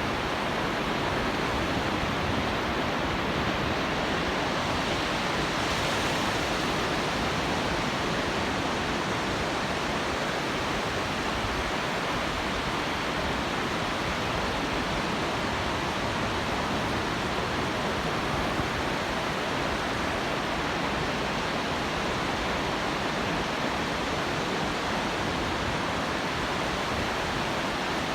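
Pacific Ocean surf breaking on the beach, heard as one steady, unbroken wash of noise with no single wave standing out.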